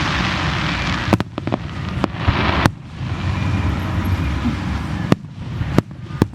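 Aerial fireworks bursting: a string of sharp bangs, several close together in the first three seconds and a few more near the end, with a hissing rush between the early ones.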